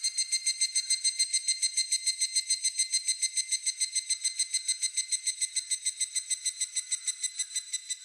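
Higurashi (evening cicada) calling: a fast train of ringing, high-pitched pulses, about ten a second, held steady and breaking off near the end.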